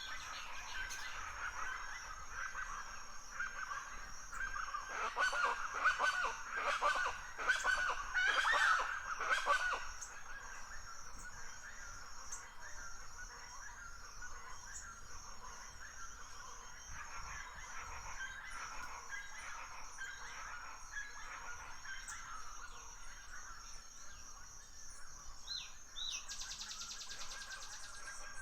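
Forest birds calling and singing, with a louder, denser flurry of calls for a few seconds near the start, over a steady high-pitched trill. A fast, buzzy trill comes in near the end.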